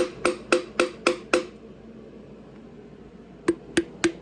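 Hammer blows on a wooden block set against a stuck part in a car engine block, a fast even series of about four strikes a second, each with a short ring. It stops for about two seconds, then a second run of blows starts near the end.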